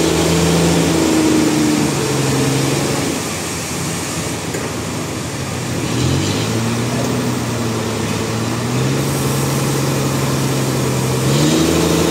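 An engine running under changing speed: its pitch drops about two seconds in, picks up again about six seconds in, and rises once more near the end.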